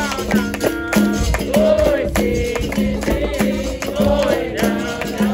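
Capoeira roda music: a berimbau plucked in a repeating rhythm that steps between two close low notes, with the rattle of a caxixi shaker on each stroke. A voice sings a held, wavering line over it in the middle.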